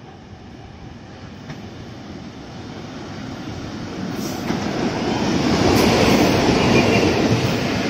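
A train approaching along the track, its running noise growing steadily louder throughout as it draws near.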